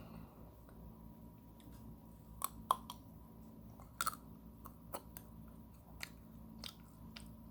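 Close-up biting and chewing of an ice cream bar, with a string of sharp crunches about once a second. The loudest crunches come about two and a half seconds in and again around four seconds.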